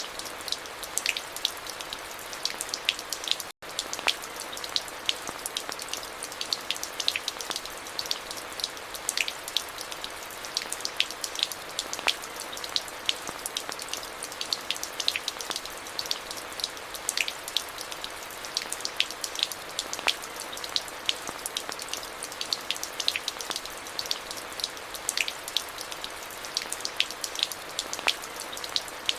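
Steady rain falling, with many individual drops striking close by over an even hiss. The sound cuts out for an instant about three and a half seconds in.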